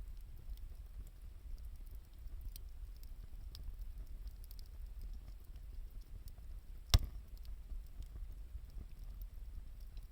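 Wood campfire crackling, with scattered faint ticks over a low steady rumble and one sharp, loud pop about seven seconds in.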